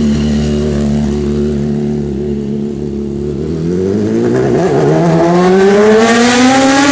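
Sport motorcycle engine accelerating hard, its pitch climbing steadily and getting louder over the last three seconds, over the steady drone of other engines running at low revs.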